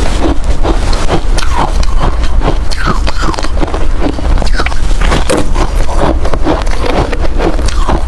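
Ice being chewed close to the microphone: a dense, irregular run of loud crunches, several a second.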